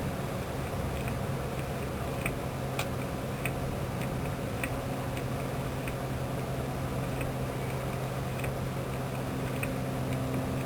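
Grease gun being pumped by hand, clicking lightly about every half second as it forces grease through a tube into the landing gear jackscrew. The threads are filling and the pumping has grown stiff. A steady low hum runs underneath.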